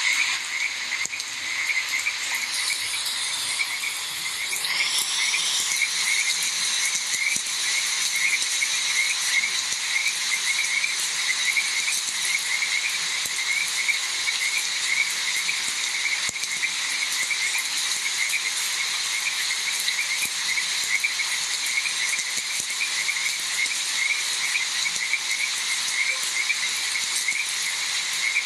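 A chorus of frogs croaking in fast, steady, repeated calls, over a constant high insect drone.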